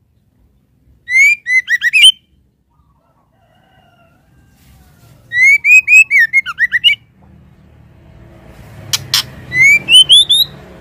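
Female white-rumped shama calling: three short bursts of quick, upward-sweeping whistled notes, a few seconds apart. Two sharp clicks come just before the last burst, over a low background rumble that builds toward the end.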